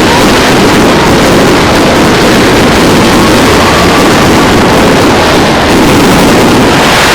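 A dense fireworks barrage: rapid bangs and crackles running together into one loud, continuous rush of noise.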